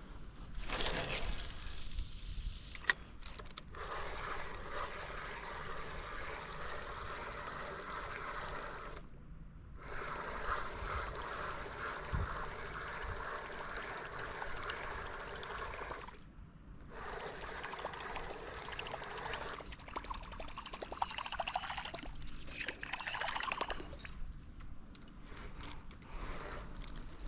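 Water trickling and splashing, a steady wash of liquid sound that drops out briefly twice, about nine and sixteen seconds in.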